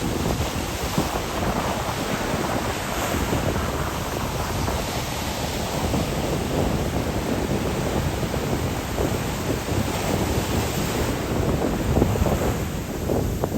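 Strong wind buffeting the microphone over the sound of sea waves washing on the shore.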